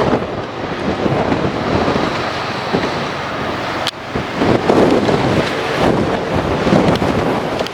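Strong wind buffeting the microphone in gusts that swell and ease, with a single sharp click about four seconds in.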